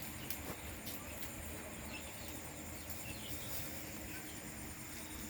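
Outdoor ambience: a few faint, short bird chirps over a steady low background hum, with a couple of light clicks.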